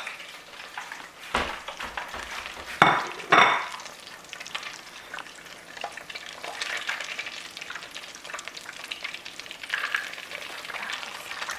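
Breaded cheese grits deep-frying in hot oil, a steady crackling sizzle, nearly done. Three sharp knocks sound in the first few seconds.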